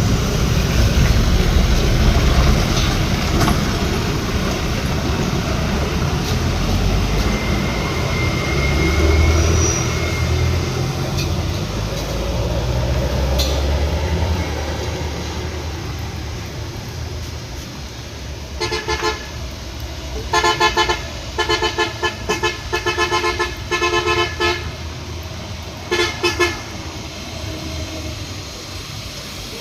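Heavy road vehicles passing on a wet road, their engines rumbling with tyre hiss, fading over the first half. From the second half on, a vehicle horn honks a long run of short toots, most of them packed close together, then two more near the end.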